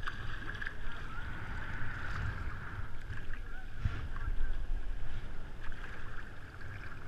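Sea water rushing and splashing around a surf kayak in the surf, with a steady low rumble and a few short surges.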